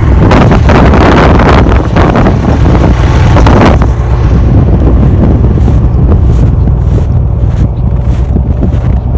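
Strong wind buffeting the microphone: a heavy low rumble with a loud rushing gust for the first four seconds, then easing into a fluttering buffet.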